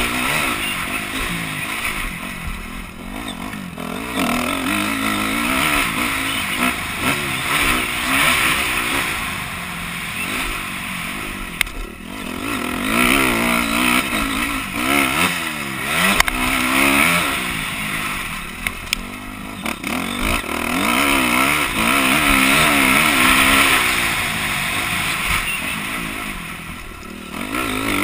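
Honda CRF250R motocross bike's single-cylinder four-stroke engine being ridden hard, its revs climbing and falling again and again as the rider accelerates and backs off.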